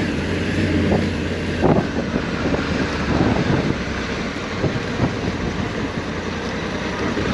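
Honda Africa Twin 1100's 1084 cc parallel-twin engine running steadily, heard from on board the bike.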